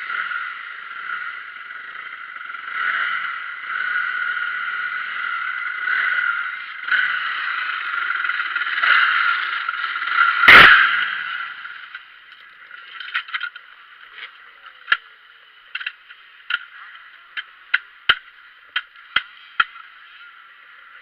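Motocross bike engine running in repeated surges, cut through by one very loud sharp knock about ten and a half seconds in. After that the engine sound drops away, leaving a run of sharp clicks and ticks.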